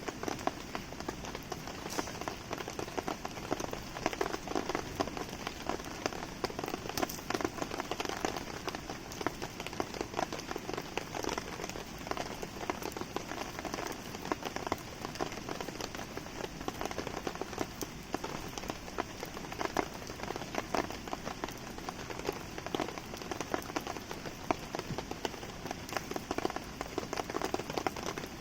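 Steady rain falling and pattering, with many close drop hits ticking through a continuous hiss.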